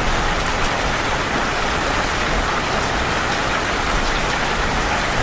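Steady rain falling, an even hiss of rain on a surface.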